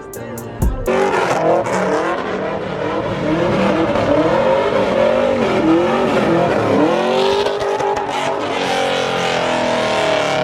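A car's engine revving hard with tyres squealing, as in a burnout or donuts, the pitch wavering up and down. It starts about a second in.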